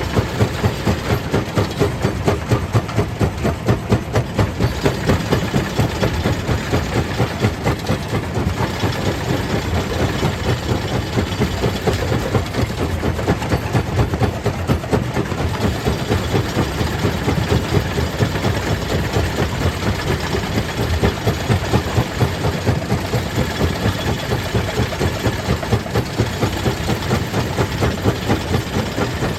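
Stone crusher plant machinery running steadily, with a regular pulsing beat of a few strokes a second.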